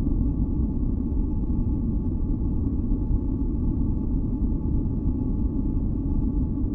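Steady, deep masking noise from a sleep white-noise track, its energy heavy in the bass, with a few faint steady tones held above it. It is unchanging throughout.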